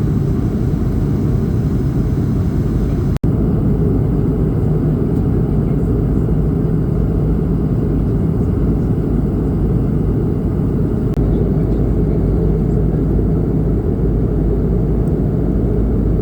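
Steady engine and airflow rumble inside the cabin of an Airbus A220-300 in flight, its Pratt & Whitney PW1500G geared turbofans running, with a brief drop-out about three seconds in.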